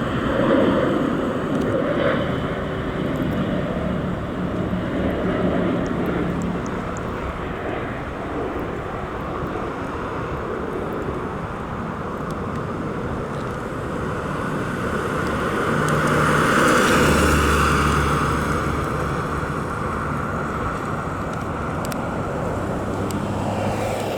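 1988 Volkswagen Jetta's 1.8-litre inline-four being driven on the road, engine and tyre noise steady, swelling louder about two-thirds of the way through before settling again.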